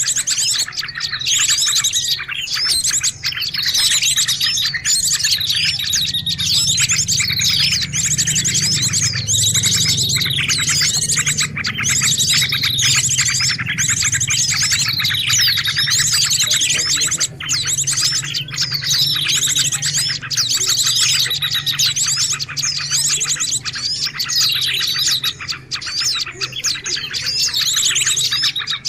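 Dense, noisy chorus of many small birds chirping and trilling over one another without pause, a bird-lure recording made to draw in other birds. A low steady hum runs underneath and is strongest around the middle.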